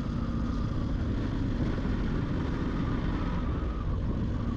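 Yamaha FZ-X single-cylinder motorcycle running steadily while riding along, with wind rushing over the microphone.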